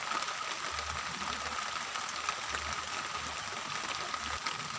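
Steady rain falling, with a dense patter of drops ticking on a surface, and a faint steady high tone alongside.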